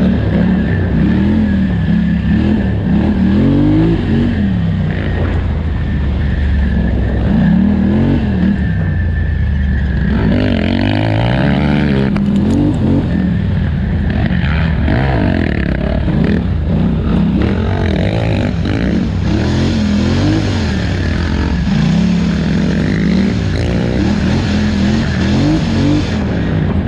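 2018 Polaris Scrambler 1000 XP's twin-cylinder engine running hard, its pitch repeatedly rising and falling as the throttle is opened and let off.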